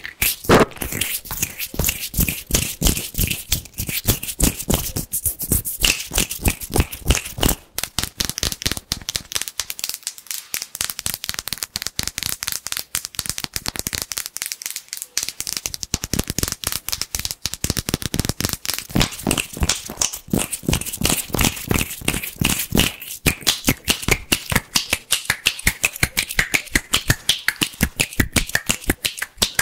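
Fast, crisp hand sounds close to the microphone: rapid clicks, snaps and rubs of skin, several a second without a break.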